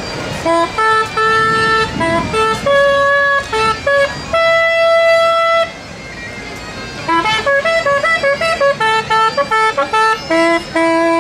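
A tune played in clear, steady held notes on a horn-like wind instrument: a few long notes, then, after a short break, a quick run of short notes ending on a long held note.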